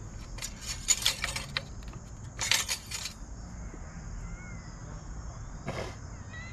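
Crickets chirring steadily, with two short bursts of clattering, rattling handling noise about one and two and a half seconds in and a brief knock near the end.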